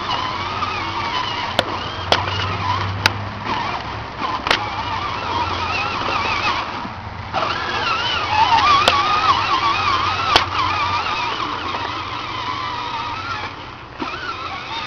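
A child's battery-powered John Deere ride-on toy tractor running, its electric motor and gearbox whining with a wavering pitch, with a few sharp clicks.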